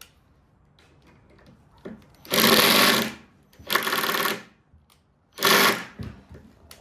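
Ryobi cordless impact driver hammering in three short bursts, each under a second, as it tries to drive a long screw into hardwood. It stalls short: the user judges the driver not strong enough for the job.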